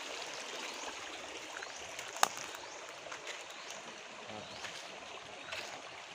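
Stream water flowing steadily over rocks, a continuous rushing. One sharp click about two seconds in, and a faint high chirp that repeats.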